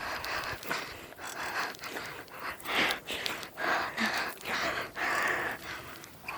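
A person breathing hard close to the microphone, a series of irregular panting puffs.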